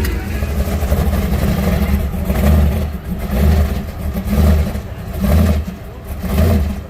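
A lowrider car pulling away, its low rumble swelling about once a second.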